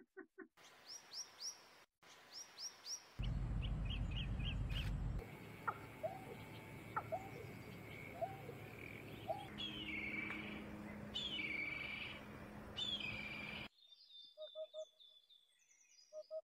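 Several birds chirping and calling in a tree-lined garden: quick runs of high falling chirps, lower whistled notes repeated every second or so, and longer whistles. The sound changes abruptly several times. A low rumble, like wind on the microphone, comes in about three seconds in and lasts about two seconds.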